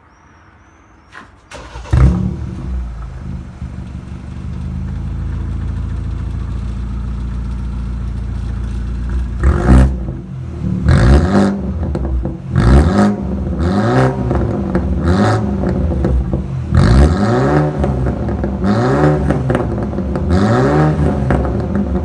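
BMW 420i's turbocharged four-cylinder engine starting about two seconds in and idling, heard through an exhaust with the muffler removed. From about ten seconds on it is revved again and again in short blips, the pitch rising and falling each time.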